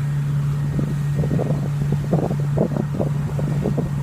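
Passenger boat's engine running with a steady low hum, with irregular gusts of wind buffeting the microphone.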